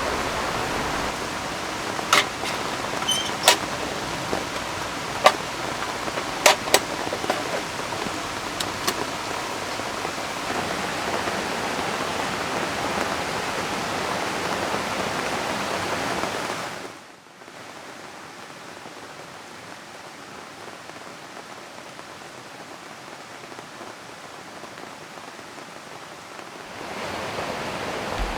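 Steady hiss of river water and rain, with a scattering of sharp clicks in the first several seconds. About halfway through it drops suddenly to a quieter hiss for about ten seconds, then swells back up near the end.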